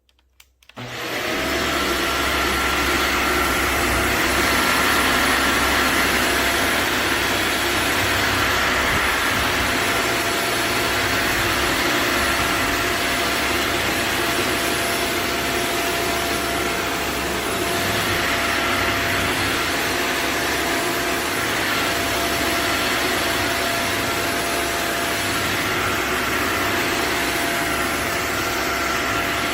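Shark Vertex AZ2002 upright vacuum cleaner switched on under a second in and running steadily, a rushing airflow with a steady motor hum and whine on top.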